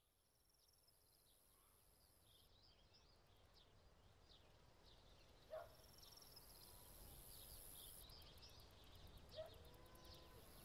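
Faint outdoor ambience fading in: birds chirping over a steady high hiss, with two short, louder calls about five and a half and nine and a half seconds in.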